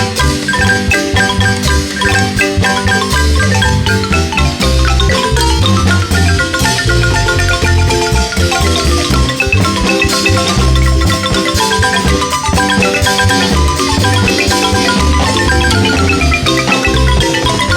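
Marimba ensemble playing a lively son: quick, rolled mallet notes over a steady, pulsing bass line.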